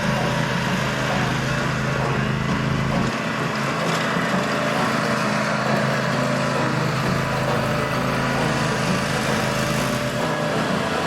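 Ariens zero-turn riding mower's engine running steadily at a constant speed.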